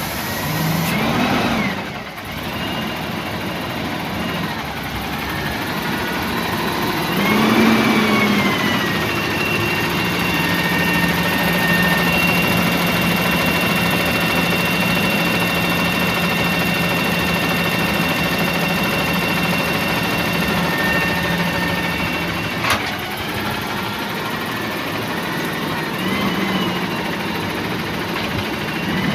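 Garbage truck's 8.9-litre six-cylinder natural-gas engine running. It is revved up and back twice early on, then held at a steady raised speed with a whine for about twelve seconds. After a sharp click it drops back to idle and is blipped lightly near the end.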